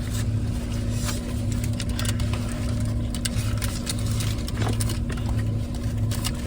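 Car engine idling: a steady low hum with an even pulse, with scattered faint clicks and rustles over it.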